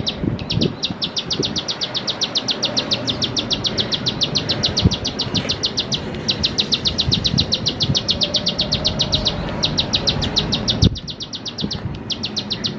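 A ciblek sawah (a prinia) calling: a rapid string of sharp, high repeated clicking notes, about ten a second. The string comes in long bursts with brief pauses between them.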